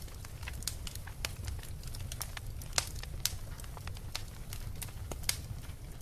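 Beach bonfire crackling, with irregular sharp pops, a few louder ones near the middle and about five seconds in, over a low steady rumble.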